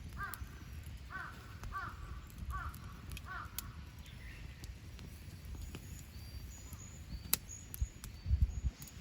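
A crow cawing five times in a row, about one call every 0.7 s, while small birds chirp thinly and a campfire crackles with sharp pops. A loud low bumping sound comes near the end.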